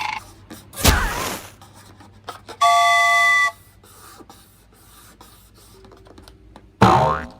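A string of short sound effects: a thud with a falling sweep about a second in, a steady electronic chime-like tone held for about a second in the middle, and a short swooping hit near the end.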